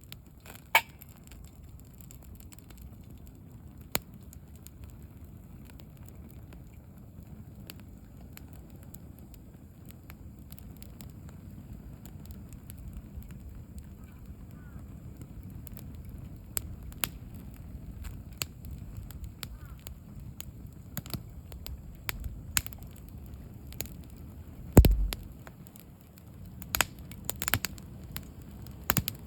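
Wood campfire burning: a steady low rush of flame with scattered sharp crackles and pops that come more often in the second half. About 25 seconds in there is one loud crack with a low thud, the loudest sound here.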